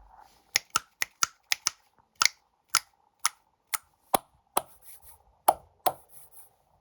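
Snack packaging being handled and unwrapped, making about fifteen sharp, crisp clicks and crackles at an irregular pace.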